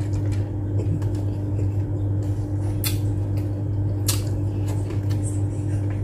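Close-up mouth sounds of eating by hand: chewing and a few sharp lip smacks or clicks, the clearest about three and four seconds in, over a steady low hum.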